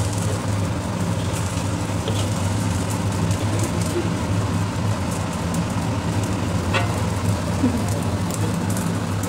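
Fried rice sizzling in a wok over a gas burner, stirred and scooped with a wooden spatula and metal ladle, with a faint scrape about seven seconds in, over a steady low hum.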